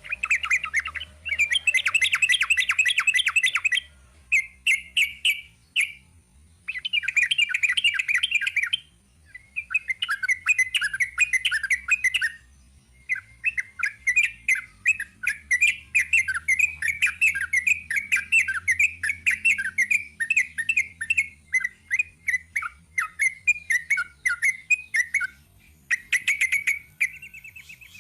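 Yellow-vented bulbul (trucukan) singing its long, rapid 'ropel' song: runs of fast repeated chattering notes, about ten a second. The phrases last a few seconds each, with one long run of about twelve seconds in the middle, and are broken by short pauses.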